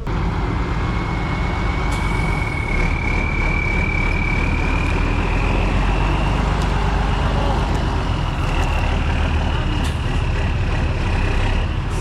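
Heavy off-road truck engine running steadily under load, with a thin whine that slowly rises in pitch.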